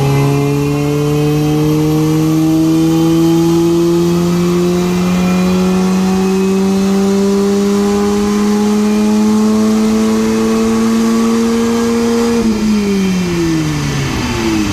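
Supercharged four-cylinder engine of an R53 Mini Cooper S, fitted with a 17% supercharger pulley, pulling on a rolling road: its pitch climbs smoothly and steadily through the revs for about twelve seconds, then falls away quickly near the end as the run finishes. This is a dyno power run.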